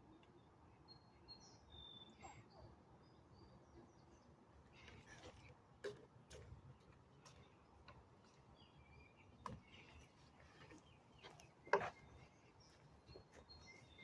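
Very quiet woodland ambience with faint, scattered bird chirps and a few soft clicks or knocks, the loudest about twelve seconds in.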